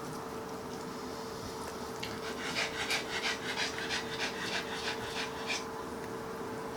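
A dog panting in quick, even breaths, about a dozen of them, starting about two seconds in and stopping a second before the end.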